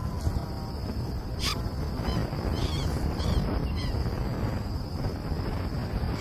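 Outdoor nature ambience: a steady high-pitched insect drone, like a cricket, over a low wind rumble, with a sharp click about one and a half seconds in and a few short, faint high chirps around the middle.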